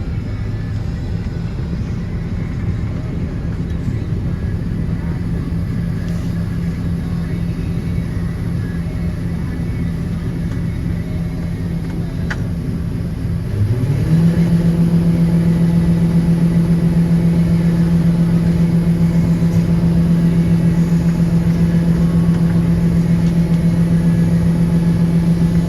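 An engine running steadily, then revving up quickly about halfway through and holding at a higher, louder speed.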